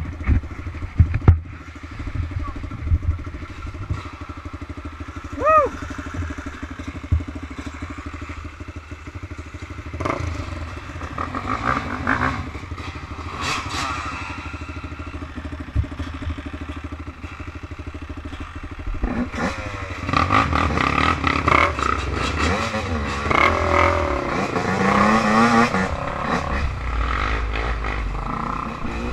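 Off-road motorbike and quad engines running and revving, rising and falling in pitch again and again, with sharp knocks and rattles in the first couple of seconds. The revving is louder and busier from about twenty seconds in.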